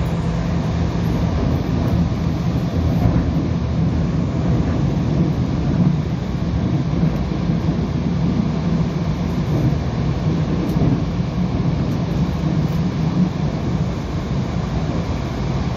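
Seoul electric commuter train running at speed, heard from inside the passenger car: a steady low rumble of wheels on the rails.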